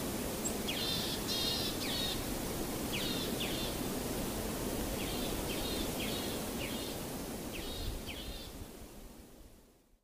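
Outdoor ambience of steady noise with birds calling in short bursts of quick chirps, about five groups of calls spread through it. It fades out over the last second or two.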